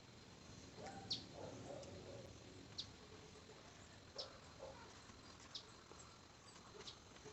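A bird giving short, high chirps, five times at an even pace of about one every second and a half, over faint outdoor background.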